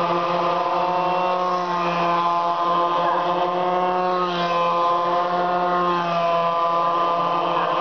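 Small racing motorcycle engines running together at steady revs, a droning mix of engine notes whose pitch wavers slightly.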